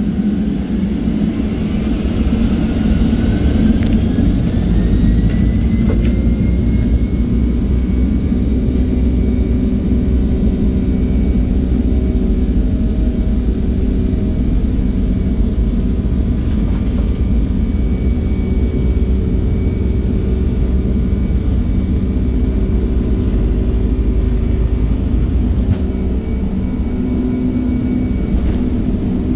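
Boeing 757 jet engines at takeoff thrust, heard from inside the cabin: a whine rises in pitch over the first six seconds or so, then holds steady over a loud, continuous rumble.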